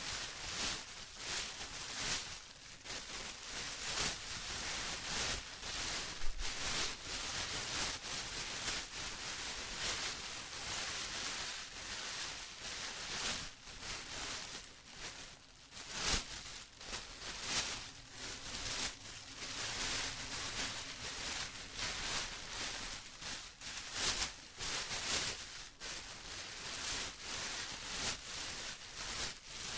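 Plastic rustling and crinkling continuously, with irregular crisp crackles and short lulls.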